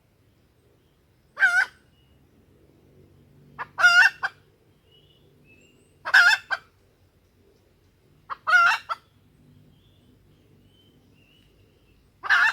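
Female junglefowl calling: five short, wavering clucks repeated about every two and a half seconds, a lure call of the kind used to make wild junglefowl cocks crow.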